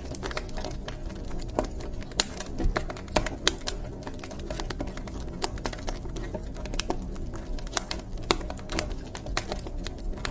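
Wood fire crackling in a fireplace: irregular sharp snaps and pops, a few louder than the rest, over a steady low rumble of the burning.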